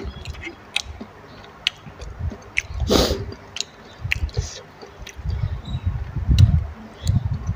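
Close-miked chewing of a boiled duck egg, with wet mouth clicks and smacks, and the chewing heavier and thumping in the second half. A brief louder hiss about three seconds in.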